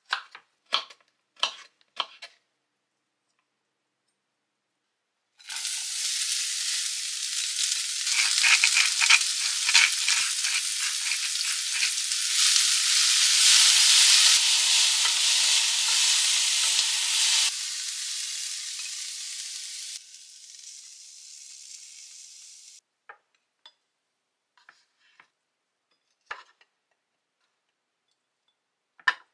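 A knife cutting carrot on a wooden chopping board, a few sharp chops in the first two seconds. Then shredded cabbage and carrot sizzling loudly as they are stir-fried in a pan and turned with tongs; the sizzle drops off in steps and stops, leaving a few light clicks of tongs setting food on a plate.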